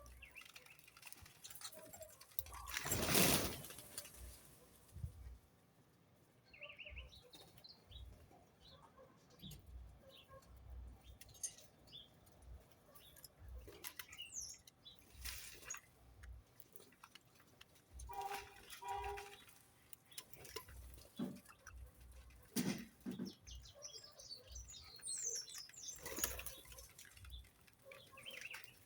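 Birds moving about: scattered high chirps and light ticks, wing flaps, a short two-note call past the middle, and a louder whoosh about three seconds in.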